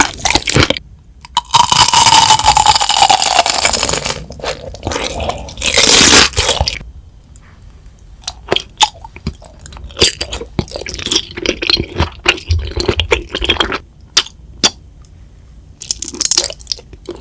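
Close-miked eating sounds: crunchy bites and chewing, with many sharp crunches and clicks through the second half. Early on there is a loud crackling stretch with a falling whine through it, and another loud burst around six seconds in.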